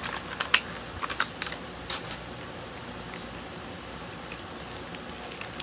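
Light plastic clicks and taps as a 1/64-scale diecast car and its plastic packaging are handled, a quick cluster of them in the first two seconds, then only a low steady hiss.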